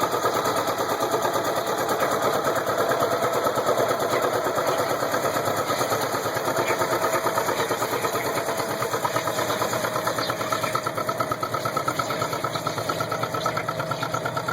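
Turbocharged John Deere 820 two-cylinder diesel tractor engine running hard during a pull, its exhaust giving a rapid, steady popping beat. It eases off slightly near the end.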